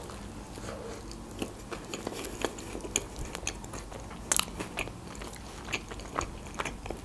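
Close-miked biting into and chewing of a hamburger: irregular small mouth clicks and smacks of chewing, with a sharper click about four seconds in.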